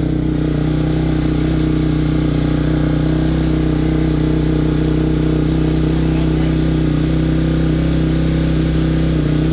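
2006 Honda CRF250X single-cylinder four-stroke engine idling steadily just after a cold start, running fast and loud on choke.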